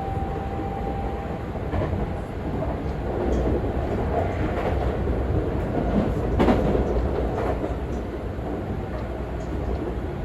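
Running sound inside a Seibu 40000 series electric train car at line speed: a steady rumble of wheels on rail, with a thin steady tone that fades out about a second in and a few sharp clacks over rail joints, the loudest about six and a half seconds in.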